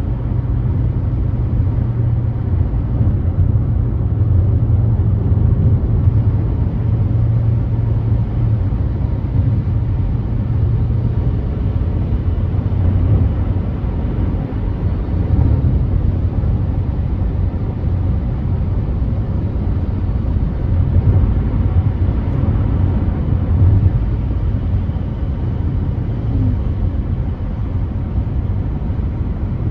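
Car driving at freeway speed: a steady low rumble of road and engine noise with a hiss of tyres and wind.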